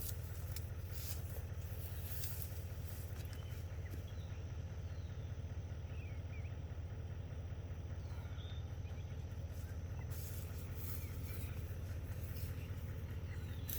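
A vehicle engine idling with a steady low hum. A few faint bird chirps sound over it.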